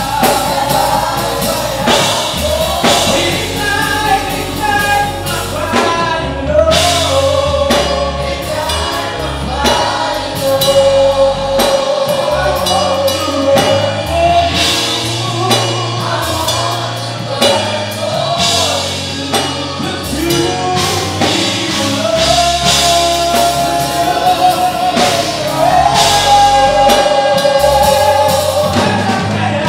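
Gospel praise and worship music: several voices singing together over a band with a drum kit.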